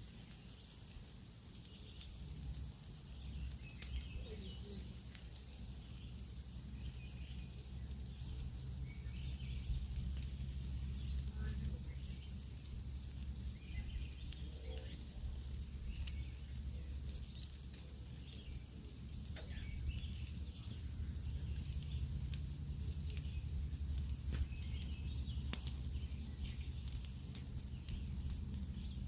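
Wood campfire crackling, with many sharp irregular pops over a low steady rumble. Birds chirp faintly now and then.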